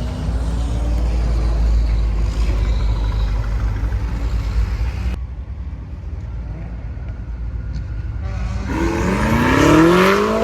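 Car engine running under way with a slowly rising note; after an abrupt cut about five seconds in it is quieter, then near the end an engine revs hard, its pitch climbing quickly as the car accelerates.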